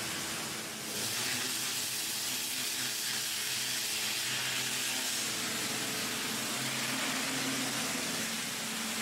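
Steady hiss of a cleaning tool spraying, starting about a second in, over a faint low machine hum.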